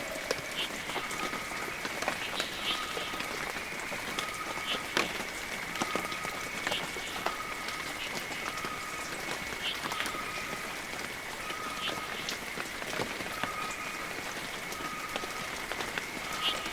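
Steady heavy rain with individual drops ticking, under a steady high drone and a short call that repeats about every second and a half.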